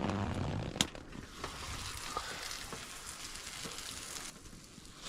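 Food sizzling and crackling in a hot pan on a camp stove, with a sharp click about a second in.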